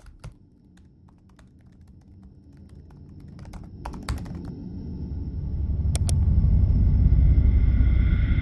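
Light scattered clicks, then a low rumbling drone that swells from about three seconds in until it is loud, with a thin high ringing tone above it. Two sharp clicks come about six seconds in.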